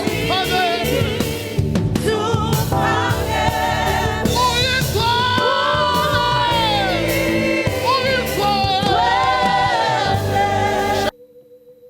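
Group singing a Zulu gospel praise song with instrumental backing. It cuts off abruptly about eleven seconds in, leaving only a soft held keyboard tone.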